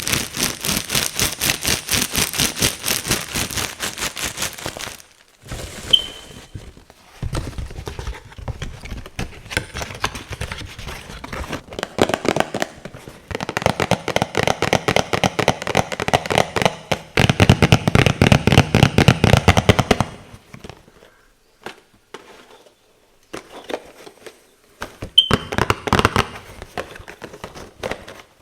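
Fingernails tapping and scratching rapidly on cardboard boxes, in quick runs of dense clicks lasting a few seconds each, with short pauses between runs.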